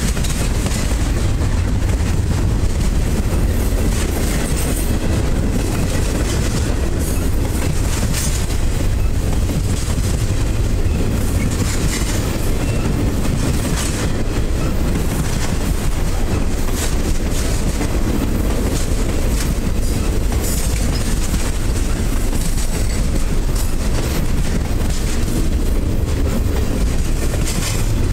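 Double-stack container cars of a freight train rolling steadily past close by: a continuous rumble of steel wheels on rail with scattered clicks and clatter.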